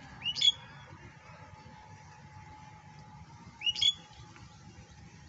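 A bird calling twice, about three seconds apart: each call a short, sharp upward-sweeping note.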